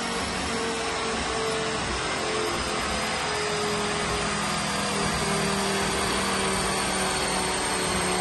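Ford Focus ST's turbocharged five-cylinder engine running on a rolling-road dyno at fairly steady revs, under a steady rushing, fan-like noise. It gets slightly louder about halfway through.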